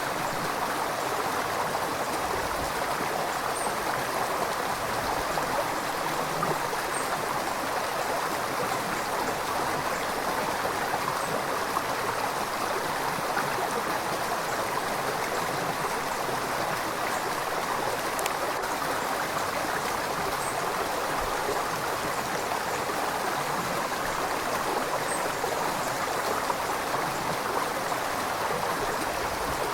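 A river flowing: a steady, even rush of moving water.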